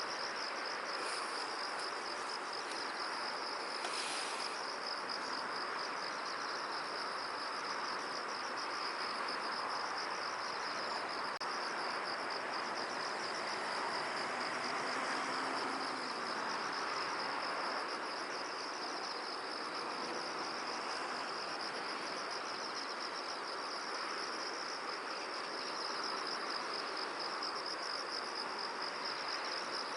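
Insects trilling in a continuous high, rapidly pulsing chorus over a soft, even rushing hiss, with a brief higher chirp about four seconds in.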